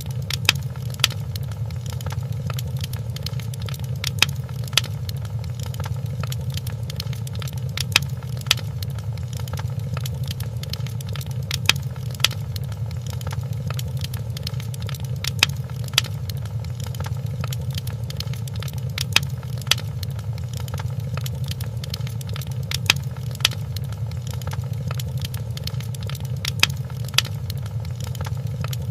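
Wood fire crackling in a fireplace: a steady low rumble of burning with sharp pops that come in pairs about every four seconds.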